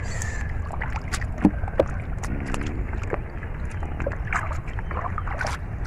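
Shallow floodwater splashing and sloshing in a run of small, irregular splashes as hands work through it, over a steady low wind rumble on the microphone.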